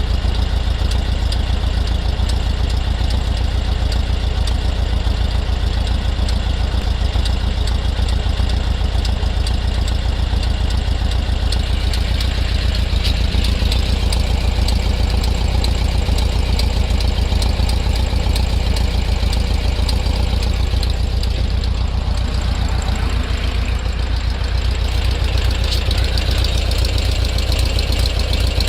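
Volkswagen Beetle engine idling steadily, with a fast, even popping/ticking noise mixed in that seems to come from around the rear left and whose cause the owner can't place.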